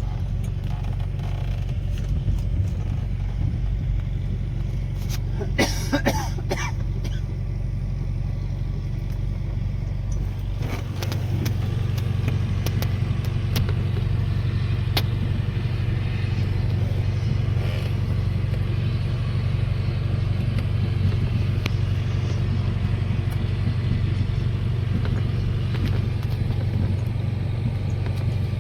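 A vehicle engine running steadily, a low rumble that gets louder about eleven seconds in, with a few brief clicks around six seconds.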